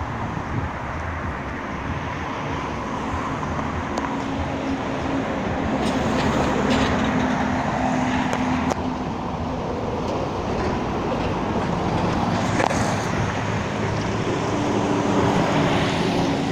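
Steady rushing noise of a vehicle in motion, with a low hum that comes and goes and a few faint clicks.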